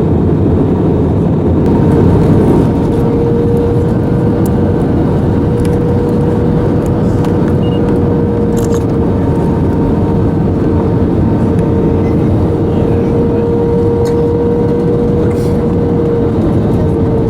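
Airliner cabin noise in flight: the steady drone of the engines and rushing air, with a held hum tone running through it.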